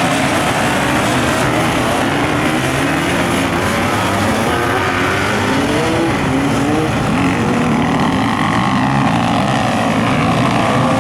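Motorcycle engine running under way, its pitch rising and falling repeatedly over a steady rush of wind noise.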